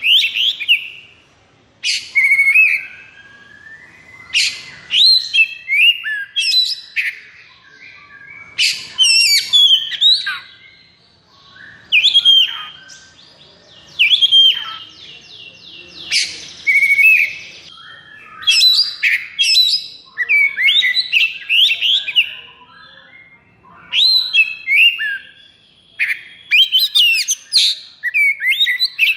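Oriental magpie-robin (kacer) singing: a run of short, varied whistled and rattling phrases, one after another with brief pauses between them.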